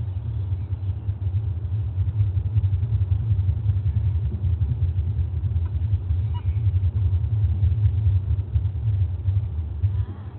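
A loud, uneven low rumble that cuts off about ten seconds in.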